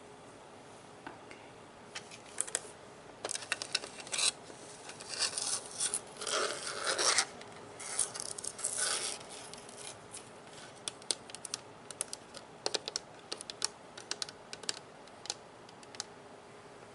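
Scratching and rubbing on the plastic body of a Nerf gun, a dense stretch of scratching in the middle giving way to scattered light clicks and taps near the end.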